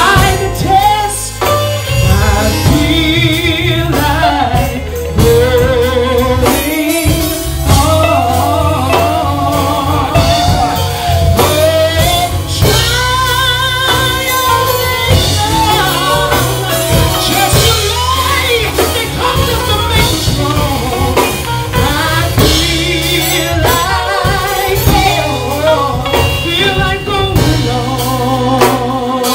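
Live gospel church music: drum kit and bass playing a steady groove under a wavering lead melody, with singing.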